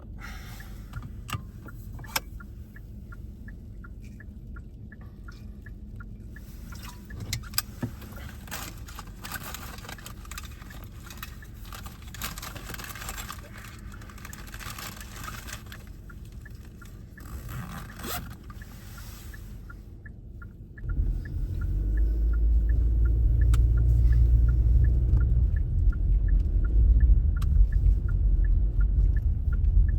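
Car cabin road noise while driving on snow-covered roads: a steady low rumble with a light regular ticking. About two-thirds of the way through, the rumble suddenly grows much louder and stays loud.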